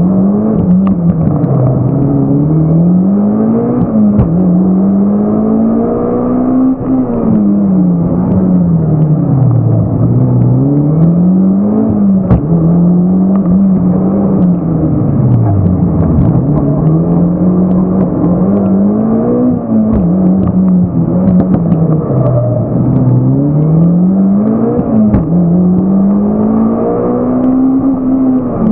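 Mitsubishi Lancer Evolution X's turbocharged 2.0 L four-cylinder engine heard from inside the cabin, revving up and dropping back again and again as the car is driven hard through the corners of a gymkhana course. The engine stays held in second gear the whole time, so the revs rise and fall without gear changes.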